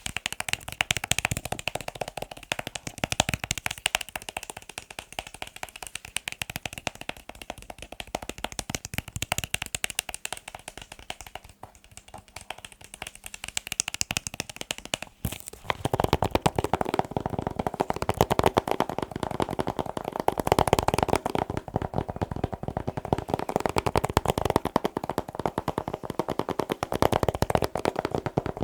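Fingers tapping rapidly on hard objects, many taps a second. A bit over halfway through, the tapping moves to a fuller, lower-sounding surface.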